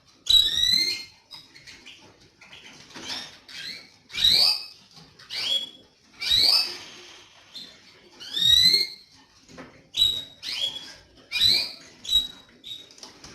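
Canaries giving short rising call notes, one burst every second or two.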